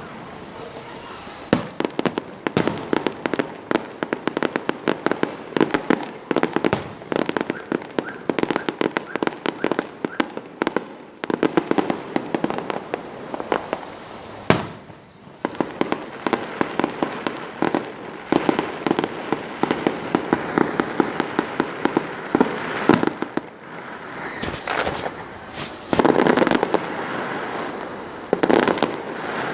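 Fireworks display: dense, rapid crackling and popping that keeps up throughout, with heavier single bangs about halfway and a cluster of louder ones in the last few seconds.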